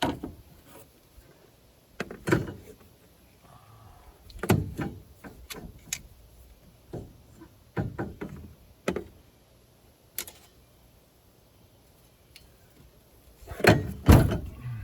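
Irregular knocks and clicks of a part being handled and pried at as it refuses to come off, with a louder cluster of knocks near the end.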